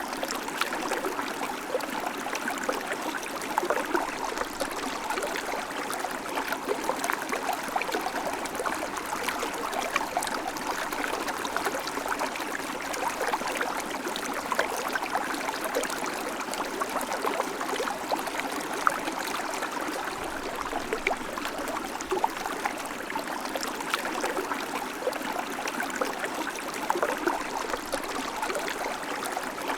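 River water flowing and babbling steadily, a dense continuous splashing and trickling without any low rumble.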